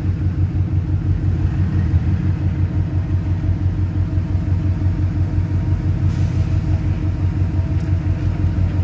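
Car engine idling close by, a loud, steady low exhaust rumble with a fast, even pulse.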